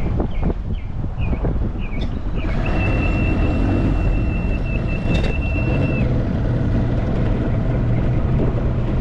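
Two-stroke outboard motor running at low speed with wind buffeting the microphone, the engine's idle rough enough that the owner suspects its reed valves. A steady high beep sounds for about three seconds in the middle.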